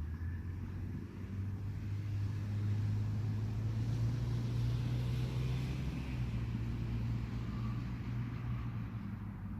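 A passing engine: a low, steady hum that swells to its loudest about four to five seconds in, then fades.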